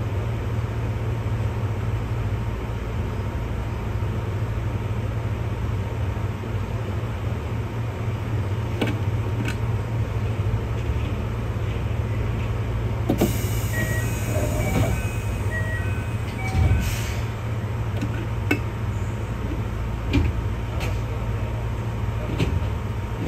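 Keihan 600-series electric train running steadily, heard from inside the car: a continuous low rumble with a few sharp knocks from the wheels and track. From about halfway through, a high hiss and short scattered tones join in for a few seconds.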